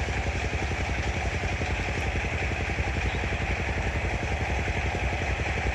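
An engine running steadily at idle, with a fast, even low pulse.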